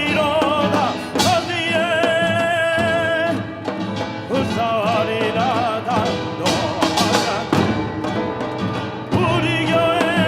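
Sacred vocal music: a solo voice singing long notes with strong vibrato over instrumental accompaniment.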